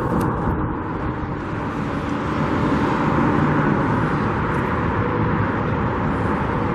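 Steady road traffic noise with wind buffeting the microphone.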